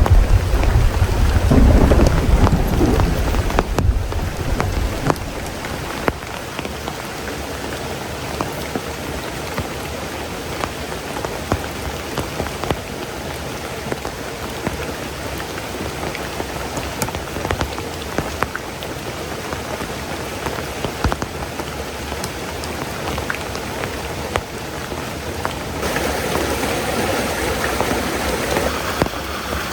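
Heavy tropical rain pouring steadily, with scattered drops ticking. A roll of thunder rumbles at the start and dies away over the first few seconds. Near the end the rain comes down harder.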